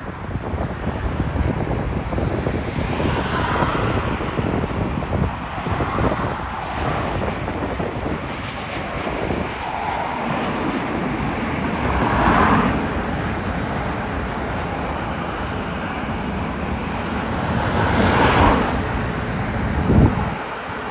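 Wind buffeting the microphone over a steady low rumble, with brief whooshes swelling and fading four times, about 3, 6, 12 and 18 seconds in.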